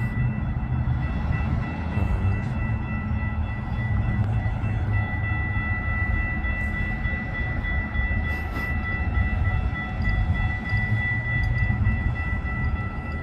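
A train running past, with a steady low rumble and a steady high-pitched whine over it.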